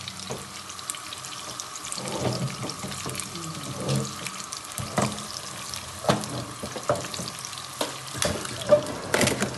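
Small minced-meat pencil kebabs shallow-frying in ghee in a pan: a steady sizzle dotted with crackles and pops, with a few sharper pops near the end.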